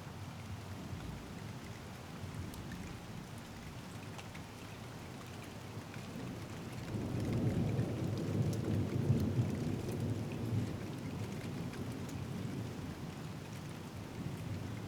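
Steady rain falling, with a long, low rumble of thunder that swells about halfway through and fades away over several seconds.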